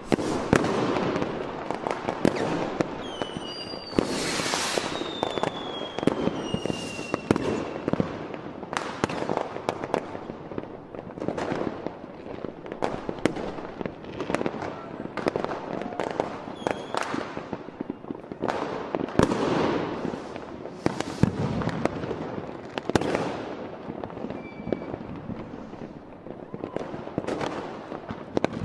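Fireworks going off in quick succession: a dense run of sharp bangs and crackling. A few falling whistles come about four to seven seconds in.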